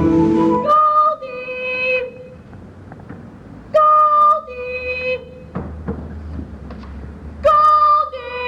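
A two-note horn toot, high then lower like a descending 'toot-toot', sounded three times about three and a half seconds apart.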